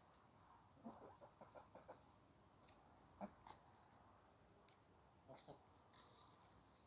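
Faint short clucking calls from fowl, in a quick series about a second in, then a single call and another short group later.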